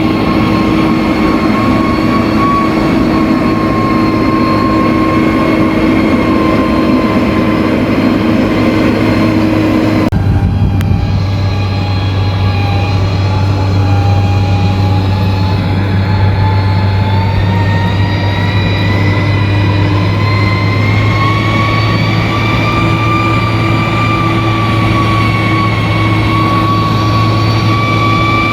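Bulldozer's diesel engine and running gear working steadily, with a whine over a deep hum. The sound changes abruptly about ten seconds in, then the whine climbs slowly in pitch.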